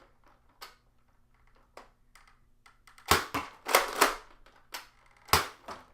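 Nerf Thermal Hunter spring-powered dart blaster being primed and fired: a few faint plastic clicks, then five or so sharp cracks in the second half as the blaster is worked and shot.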